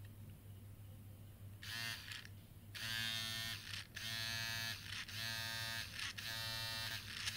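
Small toy DC motor of a homemade mini drill whining as it is switched on and off with a push switch. It runs in repeated short bursts of about a second each, starting nearly two seconds in.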